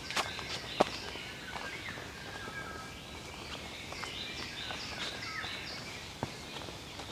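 Wild songbirds calling and singing: short high chirps and runs of quick repeated falling notes, the busiest stretch past the middle. A few sharp clicks sound among them, one near the start and one near the end.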